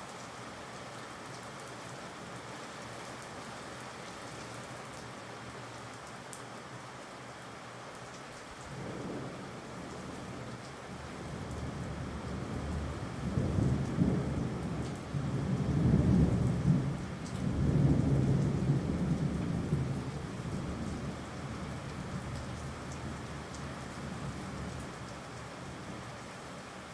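Steady rain with a long roll of thunder that builds about a third of the way in, is loudest in the middle, and rumbles away near the end.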